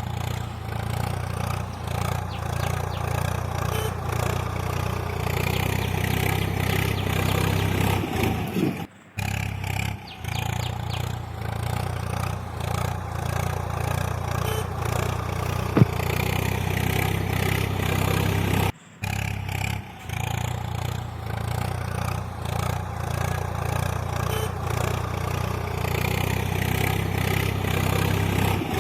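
An engine runs steadily with a low, rough rumble. It breaks off briefly twice, about nine and nineteen seconds in, and a single sharp click sounds about halfway through.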